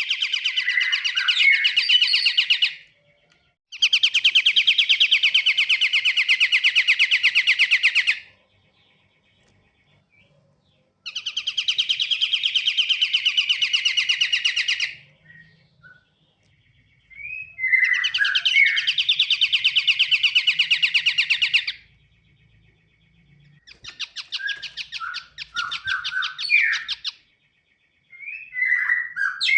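Pied triller (kapasan kemiri) song: long, rapid, buzzy trills of about four seconds each, repeated five times with short pauses, and brief chirps between some of them.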